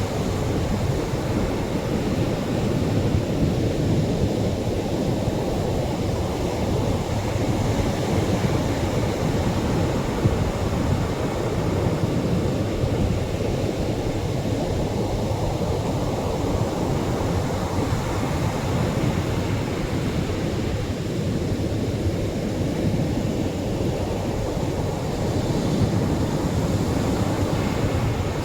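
Atlantic surf breaking on a sandy shore, a continuous low wash of heavier waves that swells and eases slowly.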